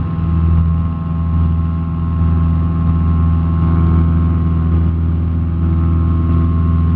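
Cessna 172SP's Lycoming IO-360 four-cylinder engine and propeller running steadily at full takeoff power during the takeoff run and climb-out, an even, unchanging drone.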